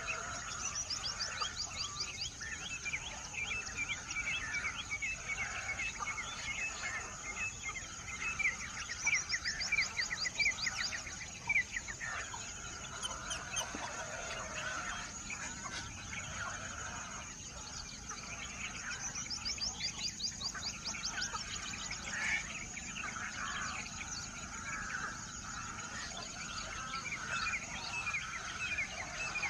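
Several birds chirping and calling over one another, with fast trills that sweep down in pitch coming back every several seconds, over a steady high-pitched tone.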